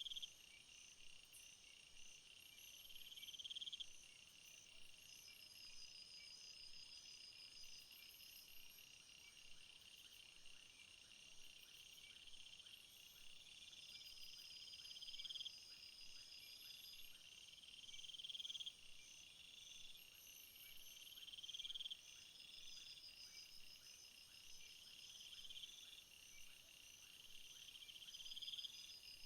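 Faint summer insect chorus of crickets and other insects: steady high trills, with a louder buzzing call that swells and cuts off abruptly every couple of seconds.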